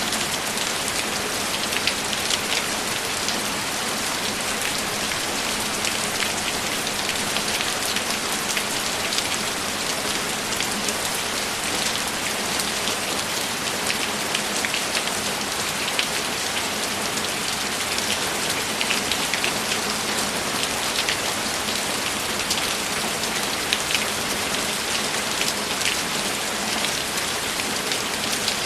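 Steady, continuous rain with distinct drops ticking, heavy and unbroken.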